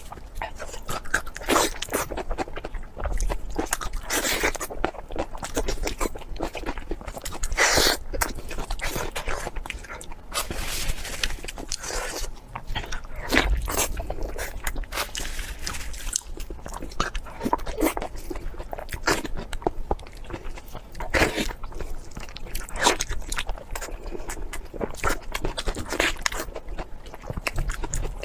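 Close-miked eating: a person biting into and chewing crunchy food, with many irregular sharp crunches.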